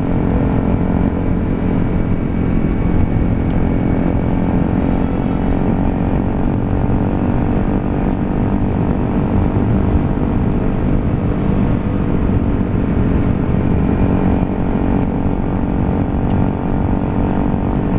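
Honda CRF300 Rally's single-cylinder engine running at a steady cruising speed, with wind and road rush, heard from the bike while riding.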